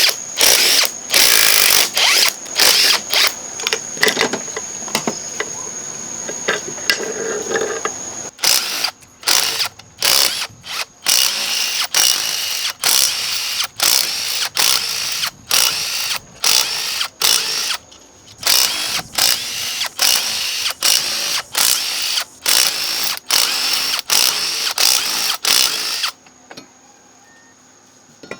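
Hand-held power tool running in many short, abrupt bursts with a steady high whine while it spins, stopping and starting over and over as fasteners are worked on the engine.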